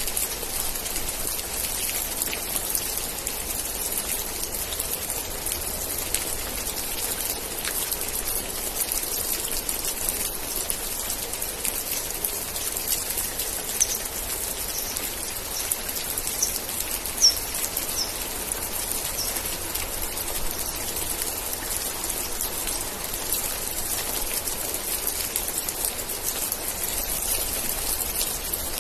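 Steady heavy rain, a dense hiss with many individual drops ticking and pattering. About halfway through comes a brief run of about seven short, high chirps.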